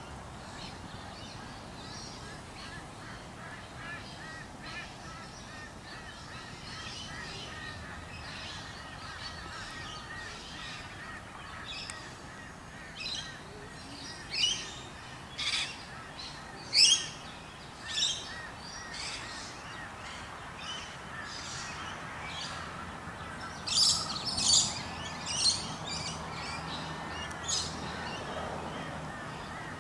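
Wild birds calling: a steady background chatter of small birds chirping, with a series of loud, short, sharp calls in the second half, bunched into two clusters.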